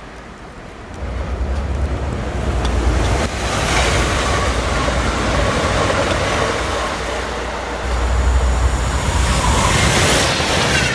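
Electric trains passing at speed on snow-covered track: a steady rushing rumble that builds about a second in and stays loud, with a closer, harsher pass near the end.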